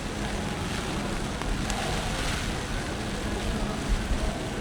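Stormy city street noise: a steady wash of rain and passing traffic, with wind gusts buffeting the microphone.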